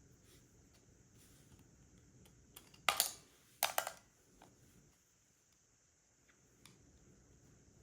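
Plastic Lego pieces clicking as they are handled and pressed together: scattered light clicks, with two louder clusters of clicks less than a second apart about three seconds in.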